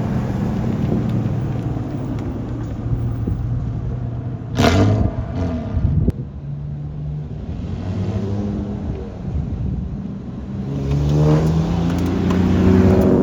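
Classic car engines running as cars drive past, with a loud burst about four and a half seconds in and one car revving up, rising in pitch, near the end.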